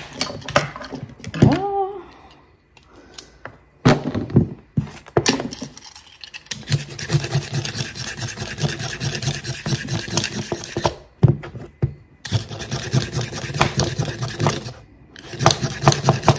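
A kitchen knife chopping and scraping carrots on a wooden cutting board, a rapid run of knocks and scrapes with a couple of short pauses.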